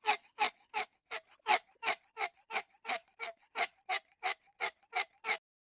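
Clock-ticking sound effect, about three even ticks a second, used as a countdown timer while a quiz question waits to be answered. The ticking stops shortly before the end.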